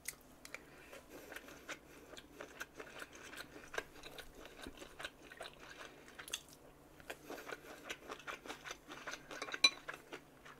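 A person chewing and eating fried rice close to the microphone: soft mouth sounds and many small clicks and taps, with a sharper click about four seconds in and another near the end.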